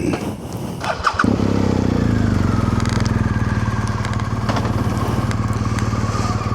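Motorcycle engine starting about a second in, then idling steadily.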